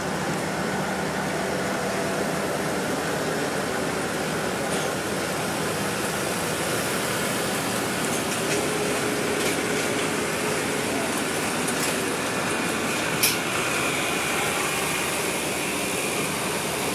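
Steady loud engine noise from a pulling tractor on the track, with a single sharp click about thirteen seconds in.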